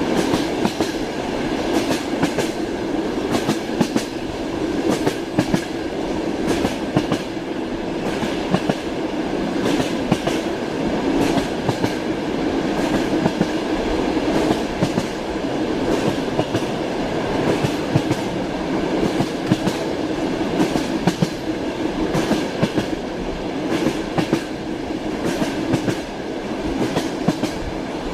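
Moving passenger train heard from inside a compartment: a steady rumble of the running carriage with the wheels clacking over rail joints again and again.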